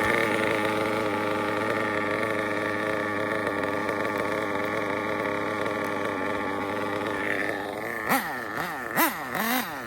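RB sealed-backplate CE two-stroke nitro engine in an RC drag car running at a steady, elevated pitch, then revved in quick up-and-down blips over the last couple of seconds. The receiver battery had come loose, and the engine nearly ran away.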